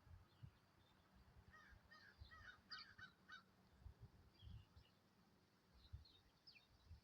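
A crow calling faintly in the distance, a quick run of about six short caws a couple of seconds in, with small birds chirping thinly around it and a low rumble of wind.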